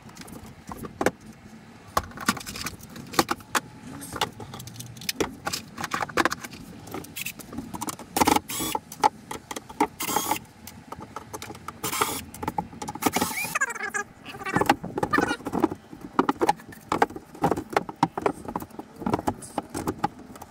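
Irregular knocks, clicks and rattles of wooden boards and building materials being handled and shifted about, with a brief scrape about two-thirds of the way through.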